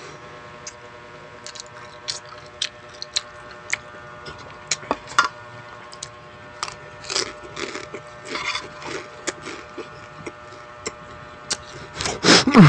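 Close-miked eating: scattered sharp bites and mouth clicks of chewing right at the microphone, over a faint steady hum. Near the end a loud voice cuts in.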